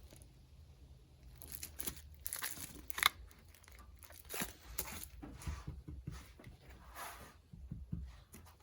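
Handling noises at a workbench: scattered light clicks and rustling as engine parts and packaging are handled, with one sharp click about three seconds in.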